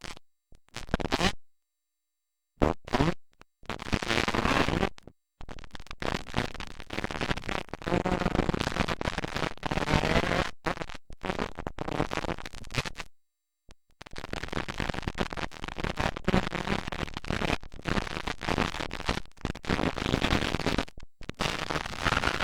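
Dirt bike engines running, harsh and noisy. The sound drops out completely several times: for about two seconds near the start, for about a second just past the middle, and again at the very end.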